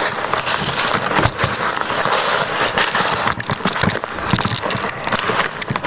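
Footsteps crunching and rustling through dry leaf litter, an irregular, continuous crackle.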